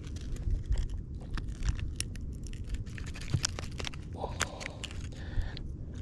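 Irregular sharp clicks and scraping from close handling, likely of fishing tackle, over a steady low rumble.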